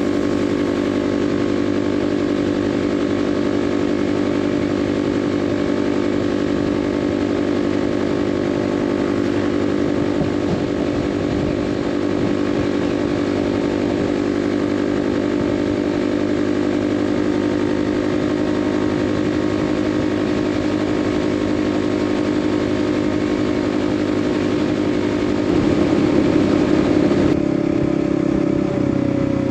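Kawasaki KLX 300's single-cylinder four-stroke engine running steadily while being ridden. It gets a little louder for about two seconds near the end, then its pitch eases slightly down.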